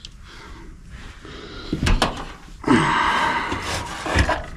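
Handling noise while working on a furnace: a thump, about a second of scraping and rustling, then another thump near the end.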